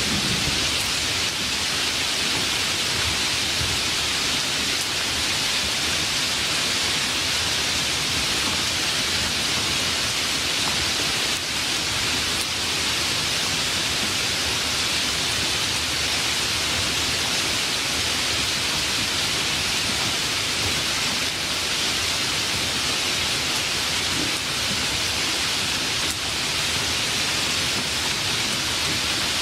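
Steady rain falling, an even hiss with no rises or breaks.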